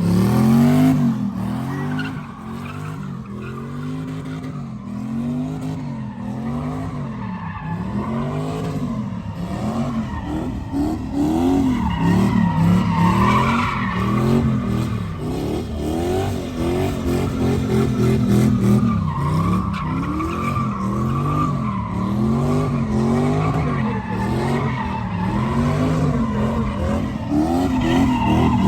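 Truck engine revved up and down over and over, about once a second, over a steady hiss of tyre noise.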